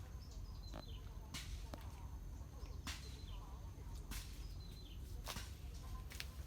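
Irregular rustling steps or brushes through dry reeds and grass, about eight sharp crackles spread across a few seconds, over a steady low wind rumble on the microphone. Faint short bird chirps come now and then.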